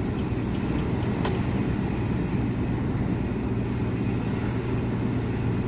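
Steady drone of a truck's engine and road noise heard inside the cab while driving, with one short click about a second in.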